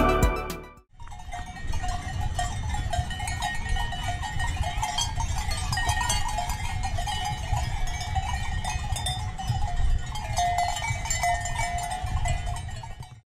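Bells on grazing Alpine livestock clanking irregularly, several at once, over a low rumble of wind on the microphone. The sound cuts off suddenly near the end.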